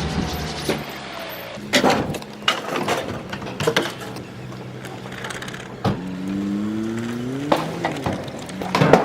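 A string of loud bangs and clatters from bulky rubbish being unloaded. A vehicle engine runs underneath, its pitch rising for a second or so past the middle.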